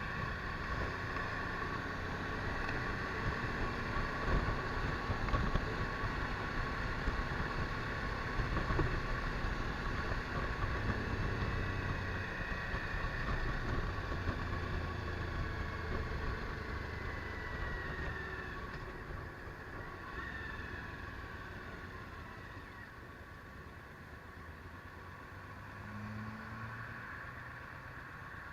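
Suzuki V-Strom DL1000's V-twin engine running on the move, with wind rushing over the microphone. The sound grows quieter over the last third.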